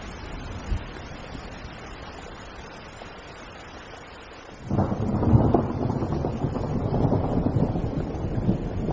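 Steady rain hiss, then a little over halfway through thunder breaks in suddenly and rumbles on loudly over the rain.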